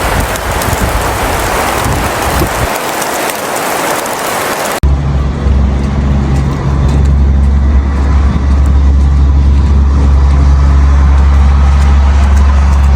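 A loud, even hiss of storm noise. About five seconds in it cuts abruptly to a steady low rumble with a hum above it, like a vehicle engine running.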